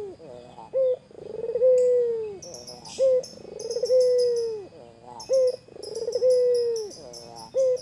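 White puter dove (white ringneck/turtle dove) cooing repeatedly. Each call is a short clipped note followed by a long rolling coo that falls slowly in pitch, about three full calls with a fourth starting near the end. Faint high chirping of small birds is heard behind it.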